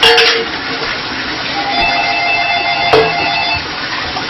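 Tap water running in the sink, with a sharp knock at the start and another about three seconds in. In the middle, a steady electronic tone at several pitches sounds for about two seconds.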